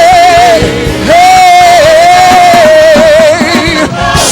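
Gospel worship song: a singer holds two long, high notes with vibrato, the first breaking off about half a second in and the second starting a second in, over the accompanying music.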